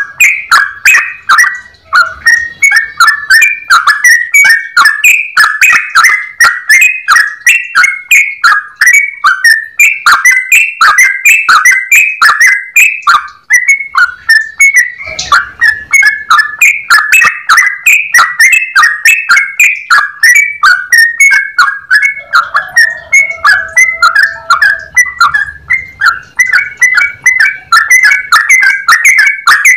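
Yellow-vented bulbul (trucukan) singing a long, unbroken run of clear, whistled notes at about two to three notes a second.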